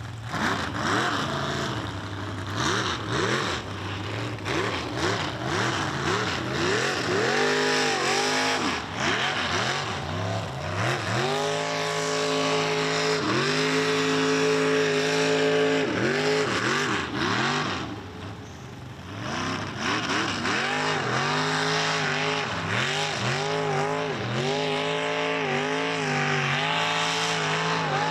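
Tube-buggy mega truck's big engine revving hard again and again, held at high revs for a few seconds in the middle. It drops off briefly about two-thirds of the way through, then runs through a string of quick rev-ups to the end.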